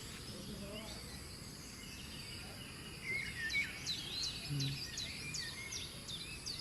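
Small birds chirping over a quiet outdoor background, with many short, quick high chirps coming thick from about three seconds in.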